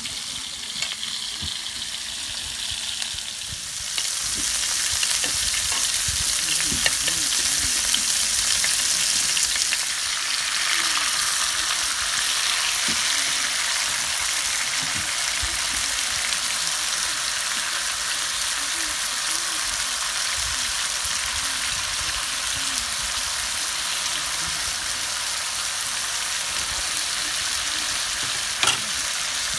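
Pork neck sizzling on a hot grill over a wood fire, a steady hiss with small crackles that grows louder about four seconds in. One sharp click comes near the end.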